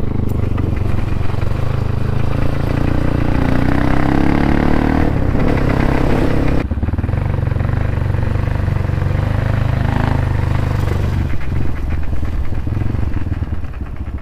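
Crossfire RM250 dirt bike's engine and exhaust under way, the pitch rising as it accelerates, then dropping abruptly about two-thirds of the way through as the throttle closes or a gear changes, and running on steadily.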